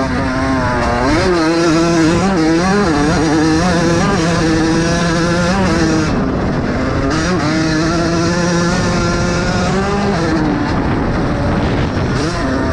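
Vintage motocross bikes racing, the engines held at high revs, then backing off and climbing again twice: about six seconds in and again near ten seconds.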